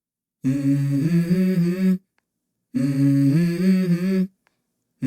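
Background music: a wordless hummed vocal melody in two phrases of about a second and a half each, separated by silence.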